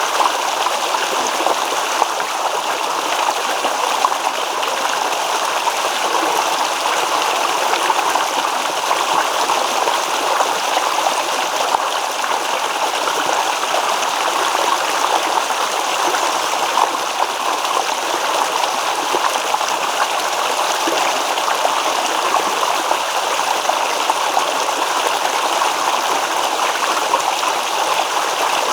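A babbling stream: water trickling and gurgling over stones in a steady, even rush.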